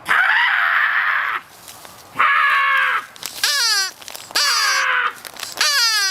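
A person imitating a bird call with the voice: repeated harsh, raspy squawks mixed with falling, whistle-like cries, meant to lure a bird.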